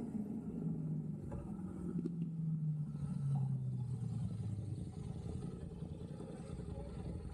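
A motor vehicle driving past, its engine hum sliding slowly down in pitch over about four seconds, over low road rumble.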